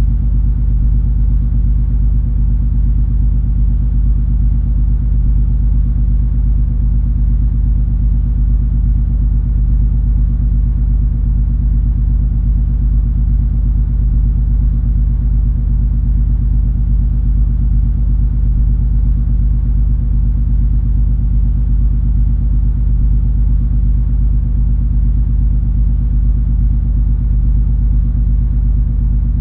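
Steady low drone of the MS Color Fantasy cruise ferry's engines and machinery while under way: a deep, even rumble with a few steady hum tones over it.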